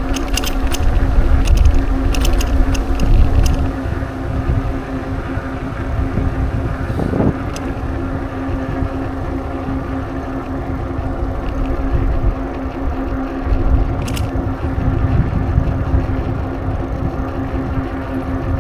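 Bicycle riding noise: wind rumbling unevenly on the microphone over a steady hum, with a few sharp clicks in the first few seconds and one more near the end.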